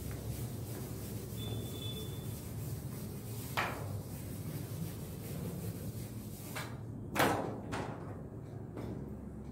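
Blackboard duster rubbing chalk off the board over a steady room hum, then a few separate knocks and thuds, the loudest about seven seconds in.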